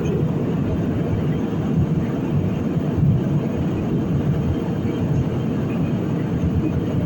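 Steady low drone of an airliner in flight heard from inside the passenger cabin: engine and airflow noise, even and unchanging.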